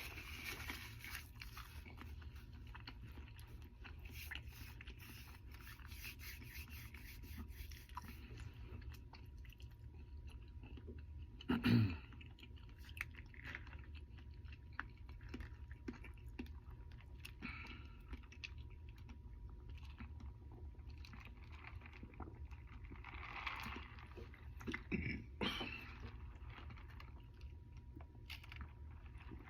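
A person chewing and biting food, with many small wet mouth clicks over a steady low hum. There is a single louder knock about twelve seconds in, and a few stronger bites near the end.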